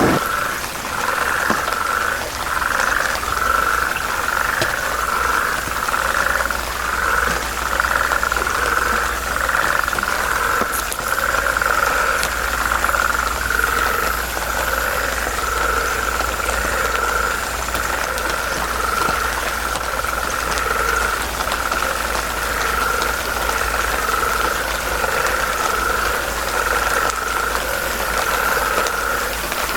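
Frog chorus: many frogs calling together on one pitch, throbbing about twice a second at first and evening out into a near-steady drone later on.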